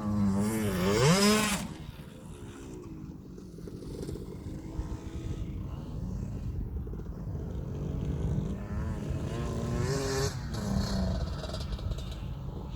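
KTM 65 SX two-stroke motocross bike engine revving hard about a second in, its pitch dipping then climbing, then running quieter, with another rev near ten seconds.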